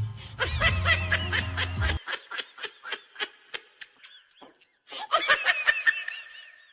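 Rapid, high-pitched giggling laughter in quick short bursts, several a second. It fades briefly past the middle, then picks up again.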